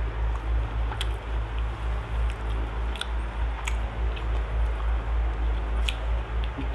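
Close-up chewing of a mouthful of fried catfish, in a steady rhythm of about three chews a second, with a few sharp clicks.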